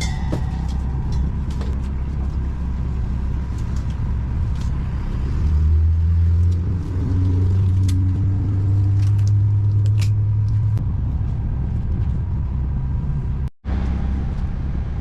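Steady low rumble of a running engine, growing louder for about five seconds midway, with a brief break near the end.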